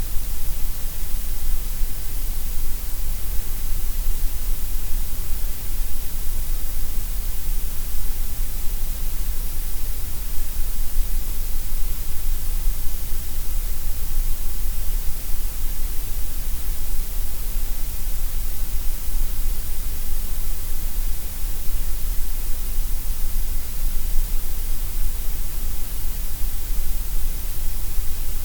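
Steady synthetic gray noise: an even, unchanging hiss with a strong deep rumble and bright top, thinner through the middle.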